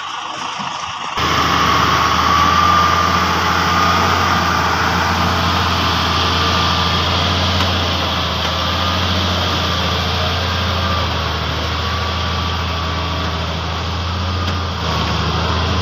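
Heavy truck engine running steadily, with a deep hum and a faint wavering whine above it. The sound jumps abruptly louder about a second in.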